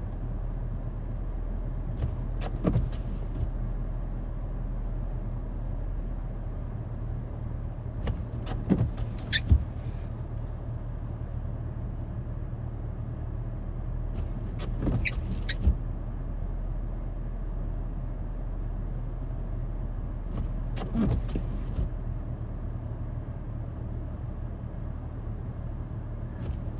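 Steady low hum of an idling motor vehicle. A short swishing knock recurs about every six seconds, five times in all.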